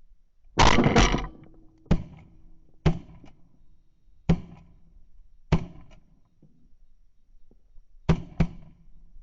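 A person's footsteps walking, heard as loud thuds about once a second, with a pause in the middle and a quick pair near the end.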